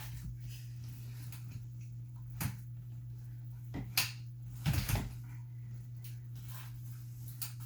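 Knocks and clicks from a folding playpen frame being handled as its top rails are pulled up to lock, a few sharp ones in the middle with a quick cluster just before the end of that stretch, over a steady low hum.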